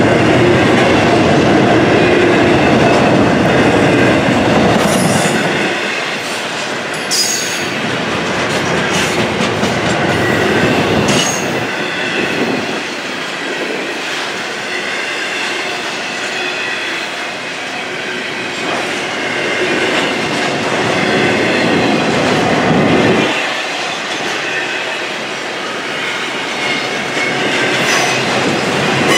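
Double-stack intermodal well cars of a freight train rolling past on steel wheels: a continuous clattering rush of wheels on rail, with a low rumble that swells and fades every several seconds as the cars go by. There are a few sharp clanks in the first half and a thin, high wheel squeal.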